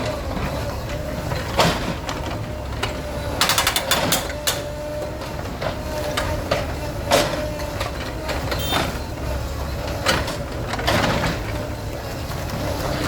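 Bulldozer's diesel engine running steadily under load, with sharp clanks and knocks of demolition, including a quick rattle of impacts about four seconds in.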